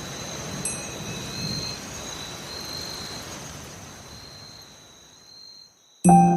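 Rain-like ambient noise with faint steady high tones, fading out over the last two seconds; musical notes come in right at the end.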